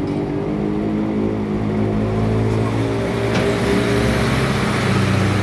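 Daihatsu CM-type three-wheeled truck being driven, its engine running with a steady low note. Road and tyre noise grows louder from about halfway through.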